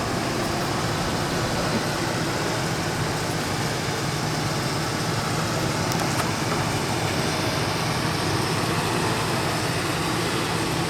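Ford F-150 pickup's engine idling steadily.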